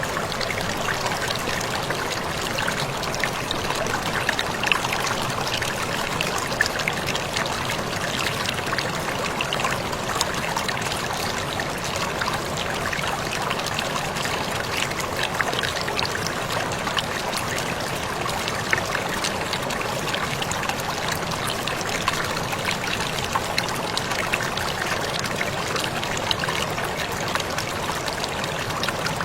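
Small waterfall splashing steadily, a continuous rush of falling water with many fine droplet ticks.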